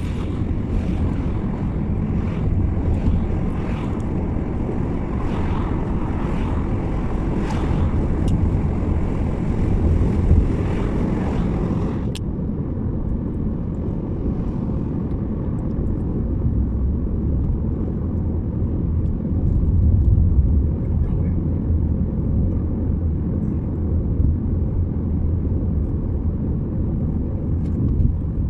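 Steady road and engine rumble of a moving car, heard from inside. A lighter hiss over it stops abruptly about twelve seconds in, leaving the low rumble.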